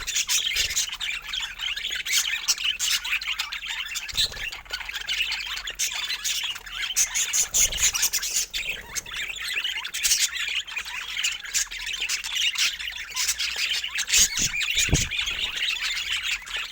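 A group of budgerigars chattering: a dense, continuous stream of quick chirps and squawks overlapping one another.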